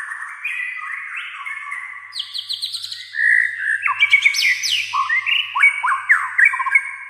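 White-rumped shama (murai batu) singing a fast, varied song of whistles and sweeping notes, growing louder and more rapid about three seconds in.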